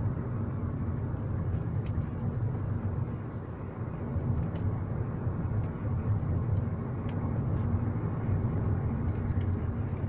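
Car driving with a steady low road rumble, over which a few light, sharp knocks sound irregularly from the right side. The knock is not a dull thud, and it was not cured by replacing the brake caliper brackets and guide pins.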